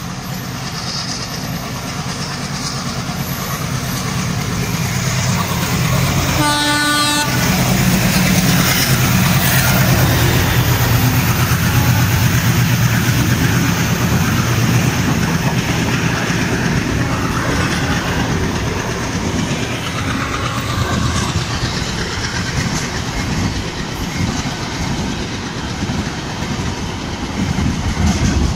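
Indian Railways express train approaching behind an electric locomotive, which sounds one short horn blast about six seconds in, then running through the station at speed, its coaches passing in a loud steady rumble with wheels clattering over the rail joints.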